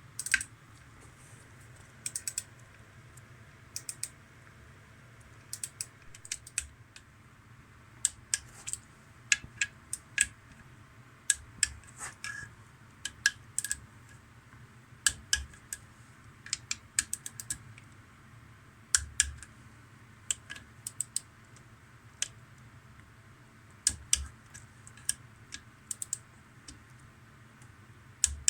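Irregular sharp metallic clicks and taps, with a few dull knocks, from hand tools and engine parts being handled during assembly.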